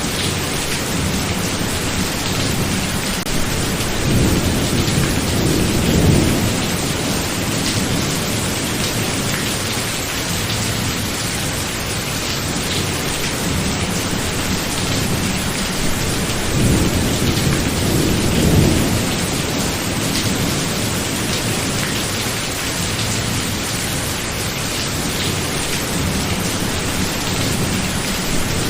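Steady heavy rain in a thunderstorm, with two low rolls of thunder rising and fading, one a few seconds in and another a little past the middle.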